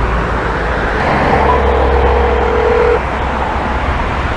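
Street traffic: the steady rumble and hiss of cars going by, with a thin steady tone that comes in about a second in and stops after under two seconds.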